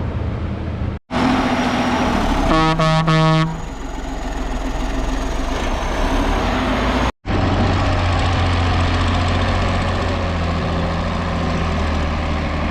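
Heavy farm tractor engines running steadily under load, in clips cut together so the sound drops out briefly twice. About two and a half seconds in, a horn sounds three short toots.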